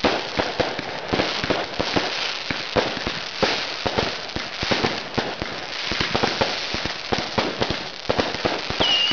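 Fireworks display: a dense, irregular string of bangs and crackles, many per second, from aerial shells and rising comets bursting overhead.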